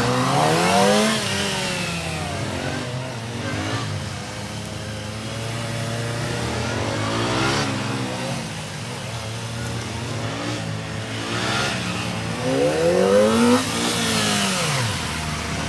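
Kawasaki ZX-25R's 250 cc inline-four engine revving up and down again and again in short bursts of throttle, rising and falling in pitch. The hardest revs come about a second in and near thirteen seconds, over a steady low hum.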